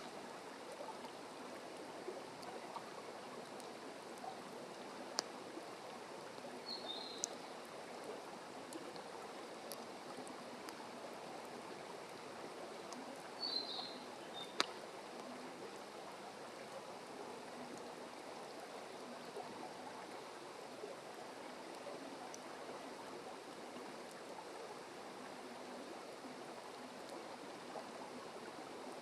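Wood fire burning in a fire stand: a steady low hiss of flames with a few sharp crackles and pops. Two brief high chirps come through in the first half.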